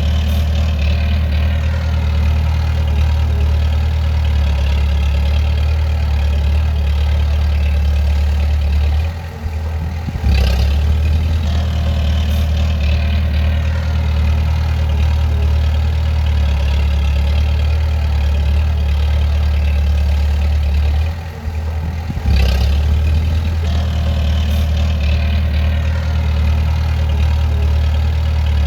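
Bulldozer's diesel engine running with a steady deep drone. It drops off for about a second twice, about a third of the way in and again about three-quarters through, then comes straight back.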